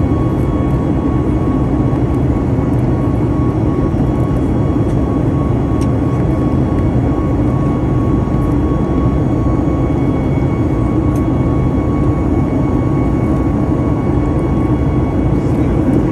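Steady airplane noise in flight, heard from inside the cabin: a constant rumble of engines and airflow with a thin, steady whine above it.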